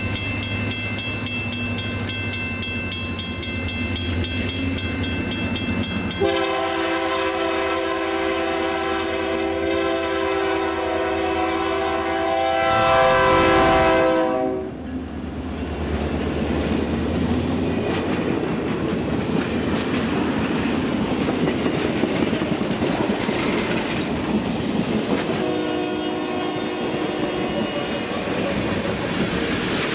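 A locomotive's multi-note horn sounds as the passenger train approaches. It swells to a long, loud blast and cuts off about halfway through. The coach wheels then clatter past, followed by the QJ 2-10-2 steam locomotive with a rushing hiss of steam.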